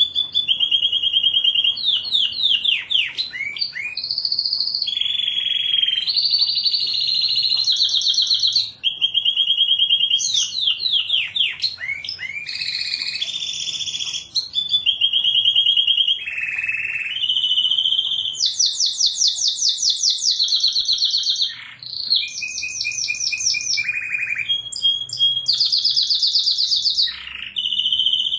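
Domestic canary singing a long, unbroken song of rapid trills. Each phrase is a quick run of repeated notes held at one pitch, and the song switches between higher and lower runs every second or two.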